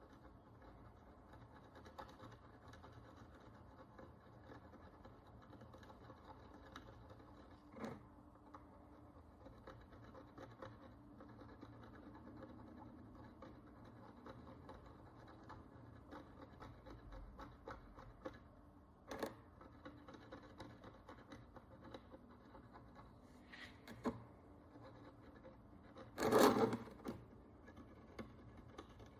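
Faint, fine scratching and scraping of a small hand tool working the encrusted dirt and oxidation off an ancient Roman bronze coin. It is broken by a few sharp taps, the loudest about three-quarters of the way through.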